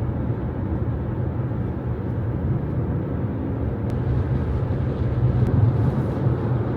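Car driving at highway speed, heard from inside the cabin: a steady low rumble of tyre and engine noise.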